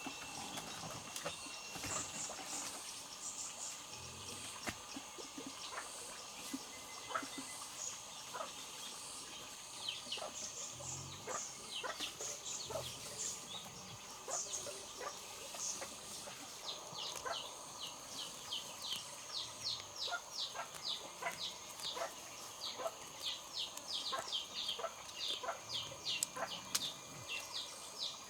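Small birds chirping, sparse at first, then in rapid runs of short high chirps through the second half, over a faint steady high whine. A few soft low thuds fall among them.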